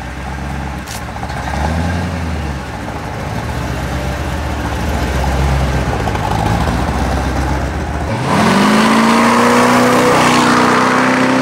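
A car engine running at a low, uneven idle. About eight seconds in it revs up sharply and holds at a steady higher pitch.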